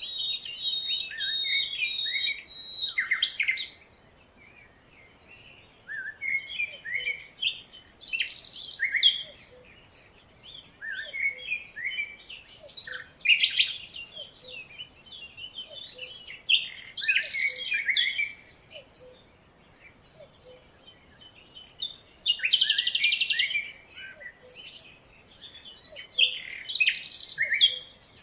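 Songbirds singing, with phrases of quick high chirps and short buzzy trills coming in bursts every few seconds.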